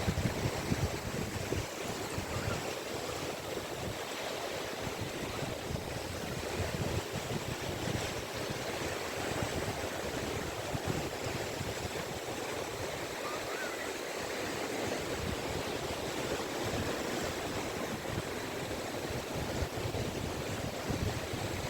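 Caspian Sea waves washing onto a beach: a steady, unbroken wash of surf.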